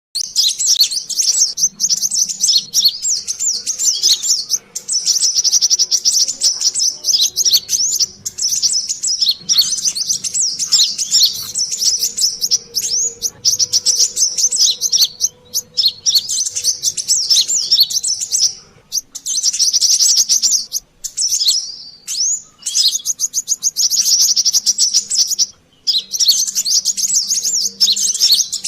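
Brown-throated sunbirds (kolibri kelapa) calling noisily: rapid, high chattering chirps and trills in bouts of a few seconds with brief pauses, a lure call for catching these sunbirds.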